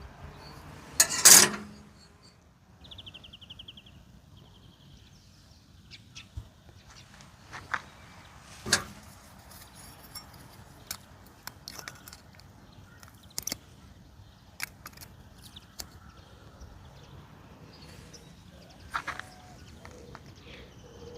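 Carburetor parts and small tools being handled on a workbench: scattered sharp clicks and clinks. A short, loud burst of hissing comes about a second in, and a fainter one about a second and a half later.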